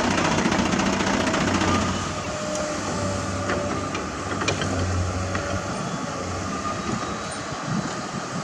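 Heavy diesel construction machinery running steadily, with a few faint clicks. The sound is a little louder for the first two seconds.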